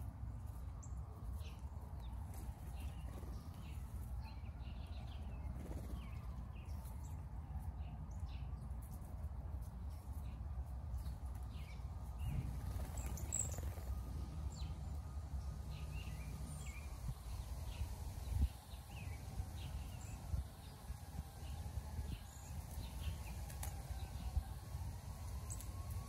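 Small songbirds chirping in short, scattered calls, over a steady low background rumble.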